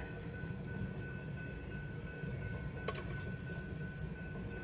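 Train of empty coal cars rolling past: a steady low rumble of wheels on the rails, with a thin steady high tone over it and a single sharp clack about three seconds in.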